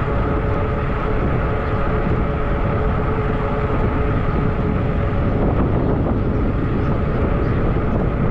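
Wind rushing over the microphone of a moving fat-tire e-bike, steady and loud, with a faint steady whine from the bike that fades after the first few seconds.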